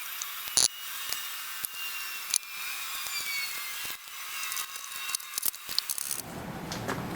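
Scraping and rubbing of hand work on metal parts, with many sharp clicks and a few faint squeaks. A lower steady noise joins about six seconds in.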